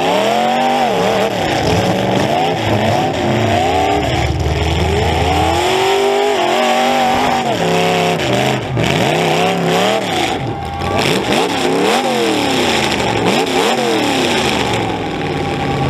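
Demolition derby car's engine revving up and falling back over and over as the car drives and reverses, heard from inside the car, with a few sharp knocks around the middle.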